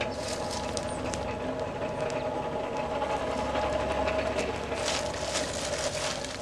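Champion 400 hand-crank forge blower being turned at a steady speed, a steady whir with a hum of several held tones, over scattered crackles from the coke fire.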